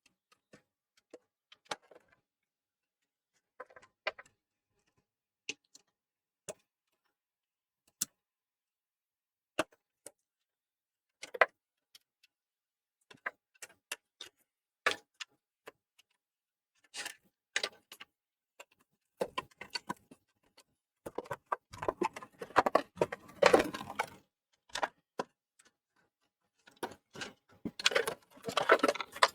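Scattered clicks and taps of small plastic and metal parts being handled and fitted inside a PlayStation 4 Slim during reassembly, with denser clattering about two-thirds of the way through and again near the end.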